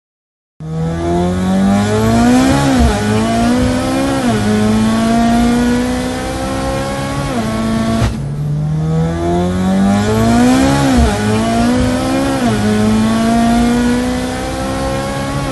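Heavily turbocharged EA888 four-cylinder engine of a VW Golf 7 R pulling hard at full throttle. Its pitch climbs and drops sharply at each upshift, several times over. The sound cuts off abruptly about eight seconds in and the same run of climbs and shifts starts again.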